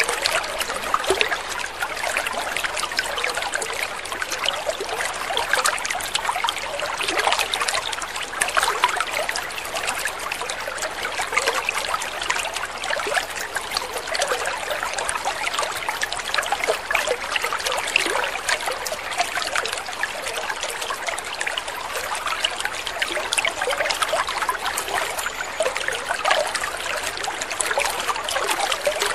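Water trickling and splashing steadily, a continuous dense patter of small drips and splashes.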